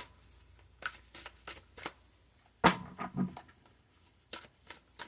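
Tarot cards being shuffled by hand: a string of short card flicks and riffles, with a louder slap about two and a half seconds in.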